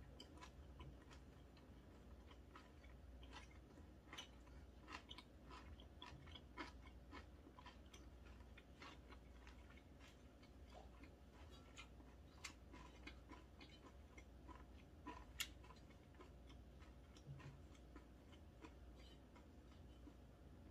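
Faint close-up chewing of a mouthful of beef and aged-kimchi roll, with many small mouth clicks spread throughout and one louder click about fifteen seconds in.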